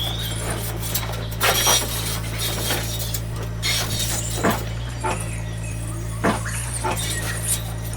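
A steady low hum under irregular sharp clinks and clacks, about one every second, of small hard pieces knocking together.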